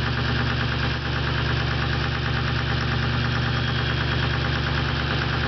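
2003 Ford F-350's 6.0 PowerStroke V8 turbo-diesel idling steadily through an open, straight-piped exhaust, with diesel clatter. One cylinder runs a little uneven, which the owner puts down to a worn exhaust lobe on the cam.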